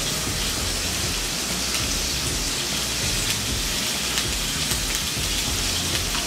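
Fish fillets sizzling in a frying pan on a gas stove: a steady frying hiss with fine crackling spatter.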